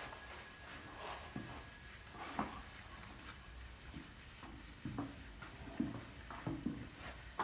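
Scattered light knocks and taps, about seven at irregular intervals, over a faint low background hum, as of small hand work with tools.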